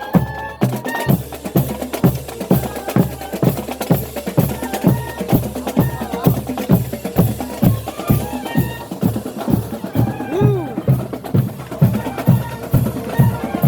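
Marching band drumline playing a steady cadence, bass drum and snare strokes at about two and a half beats a second, with voices faintly behind.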